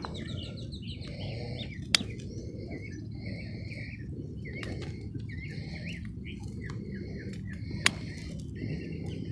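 Small birds chirping and calling over a steady low outdoor rumble, with two sharp clicks, one about two seconds in and one near the end.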